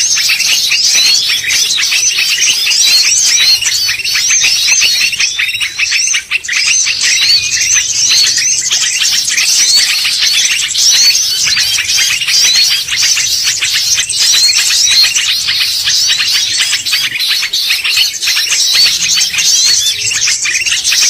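Bar-winged prinia (ciblek) calling: an unbroken run of rapid, high chirping notes that packs the whole stretch with no pause, as used for a bird lure call.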